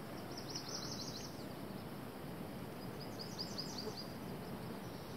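A small songbird singing two short phrases, each a rapid run of high, falling notes, about half a second in and again about three seconds in, over a faint steady outdoor hiss.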